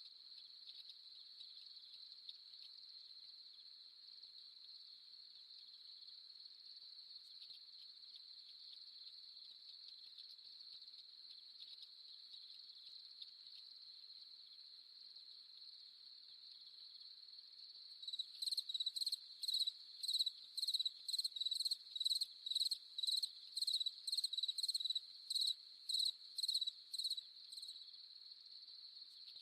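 Night insect chorus: a steady high trill of crickets. A little past the middle, a louder insect call joins it, chirping about twice a second for roughly ten seconds, then stops.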